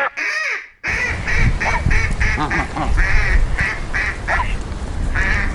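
A flock of ducks quacking: many short, rapid calls, often overlapping, with a brief break in the sound just under a second in.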